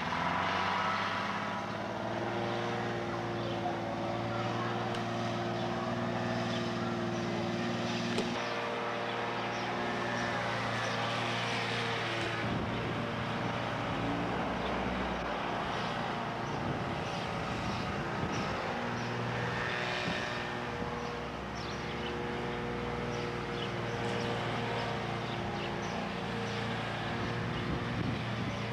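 Steady engine drone with several held tones, shifting pitch a few times.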